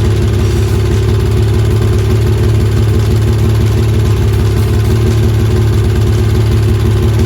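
Kawasaki Balius 250cc inline-four engine running steadily at an even idle on its freshly refitted carburettors, with no revving.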